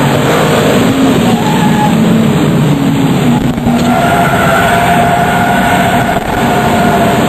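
RUF CTR Yellow Bird's twin-turbo flat-six running hard at speed. The engine note dips briefly about halfway through, then pulls on with a clear, slightly rising note.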